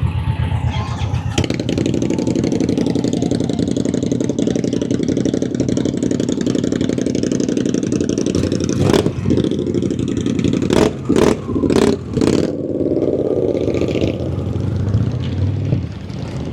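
Motorcycle engines running close by on a crowded street, with a string of five sharp bangs about two-thirds of the way in. After the bangs the engine noise thins out.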